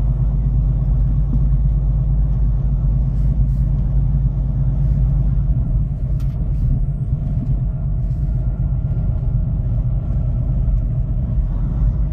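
Semi truck running loaded, a steady low rumble of diesel engine and road noise.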